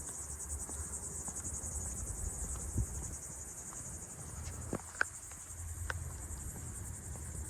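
Steady high-pitched insect chorus, a continuous fine trilling, over a faint low rumble, with a few faint clicks after the middle.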